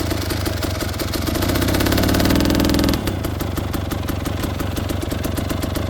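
A two-stroke dirt bike engine, the Husqvarna TE300, running under throttle and building for the first few seconds. About three seconds in it drops back to a steady idle.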